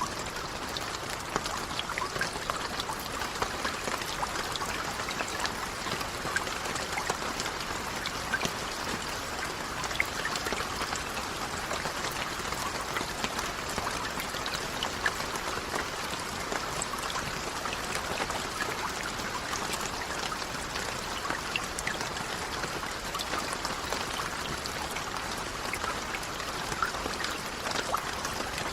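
Steady rainfall: an even hiss with many separate drops ticking through it, no thunder.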